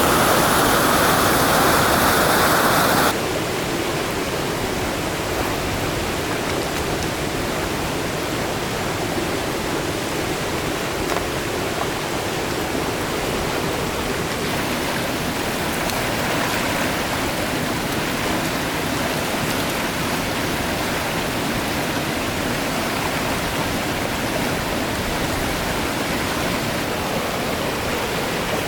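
Stream water rushing steadily. About three seconds in it cuts to a quieter, duller rush.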